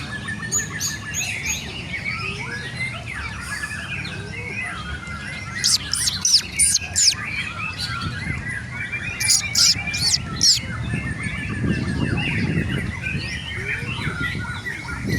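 Caged white-rumped shamas (murai batu) singing amid a dense chorus of competing songbirds, with two runs of loud, high, rising whistled notes about six and nine seconds in, over a low background rumble.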